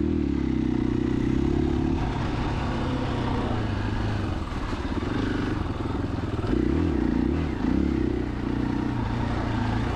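KTM 500 EXC-F dirt bike's single-cylinder four-stroke engine running under way on a trail, its pitch dipping and rising a couple of times about seven seconds in as the throttle is rolled off and on.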